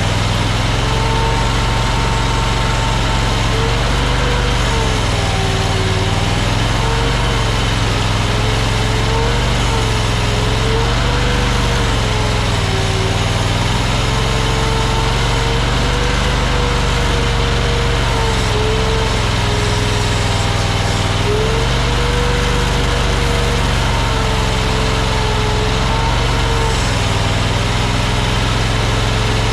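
AGT LRT23 mini skid steer running steadily while working, with a whining tone that keeps drifting up and down in pitch as the load changes.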